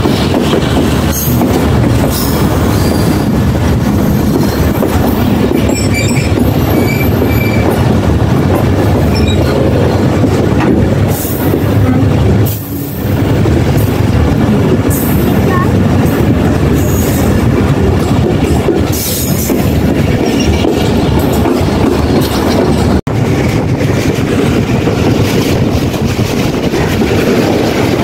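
Moving passenger train heard from an open coach doorway: the steady rumble of wheels on the rails, with scattered clicks and clatter.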